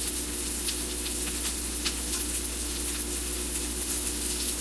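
Breaded milanesa cutlets frying in a pan: a steady sizzle with small crackles and pops scattered through it, over a steady low hum. The breading is being crisped as the meat finishes cooking.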